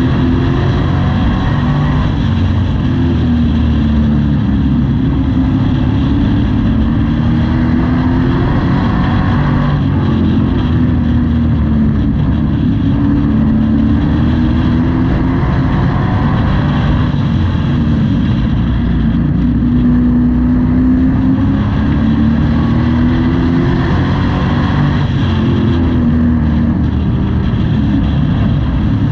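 Pro Truck race engine heard from inside the cab at racing speed, its pitch rising and falling over and over as the driver accelerates and lifts around the oval.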